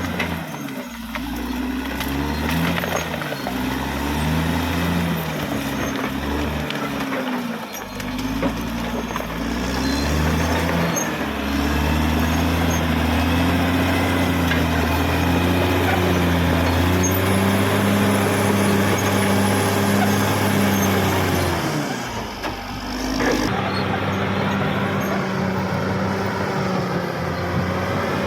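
Caterpillar D6R XL bulldozer's diesel engine working under load, its pitch rising and falling every second or two, then holding higher and steady. It drops briefly about 22 seconds in, then settles at a steady pitch.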